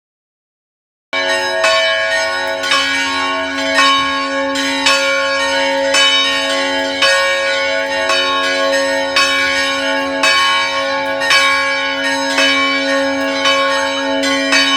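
Church bells ringing: several bells struck one after another in quick succession, their tones overlapping and lingering over a steady hum. The sound starts after about a second of dead silence.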